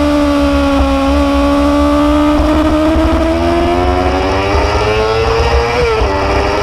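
Motorcycle engine running under way. Its pitch holds steady, then climbs for about three seconds as it accelerates, and drops sharply near the end, as at a gear change. A low rumble runs underneath.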